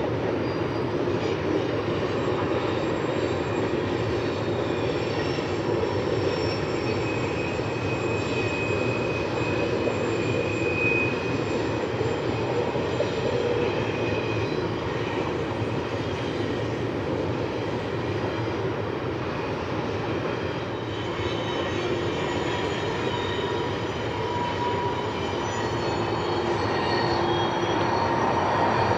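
CN freight train rolling along the track in a steady rumble of railcars, with faint thin wheel squeals coming and going. The sound grows a little louder near the end.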